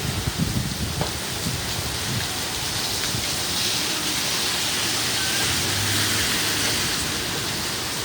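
Heavy rain falling and splashing on surfaces, a steady downpour that swells a little midway.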